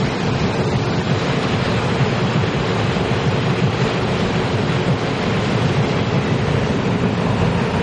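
Passenger train running past at speed close by: the steady, loud noise of its cars and wheels on the rails.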